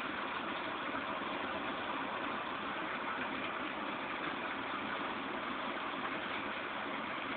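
Steady rain falling, an even hiss with no breaks or thunder claps.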